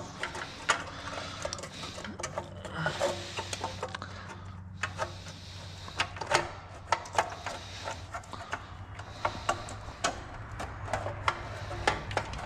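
An Allis-Chalmers WD tractor engine idling steadily, with irregular metallic clinks and knocks as a foot-rest part and its cotter pin are worked back into place.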